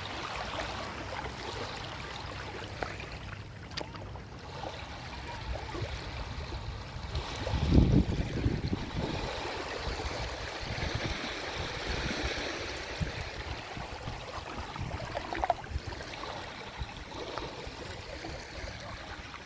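Small sea waves washing and lapping against the shore, a steady watery rush with one louder, deeper surge about halfway through.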